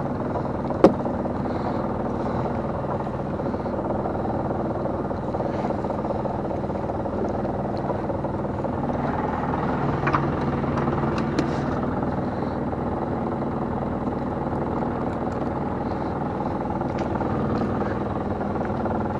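Small fishing boat's engine running steadily during gill-net hauling. A sharp knock comes about a second in, and a few lighter clicks around ten to eleven seconds.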